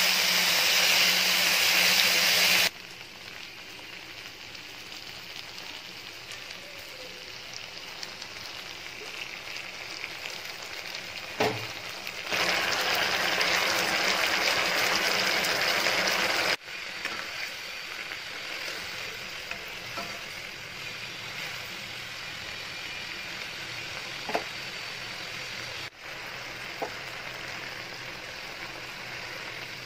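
Sauce and vegetables sizzling in oil in a hot black wok. The sizzle is loud for the first few seconds as soy sauce is poured in, and loud again from about twelve to sixteen seconds in, with a few sharp clinks of the steel spatula against the pan.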